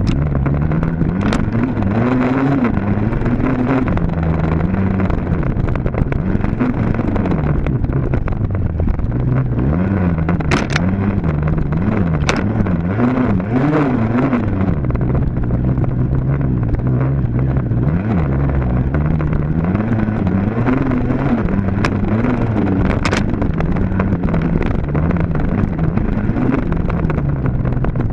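Dirt bike engine running hard, its pitch rising and falling again and again as the throttle is opened and closed, with a few sharp clicks scattered through.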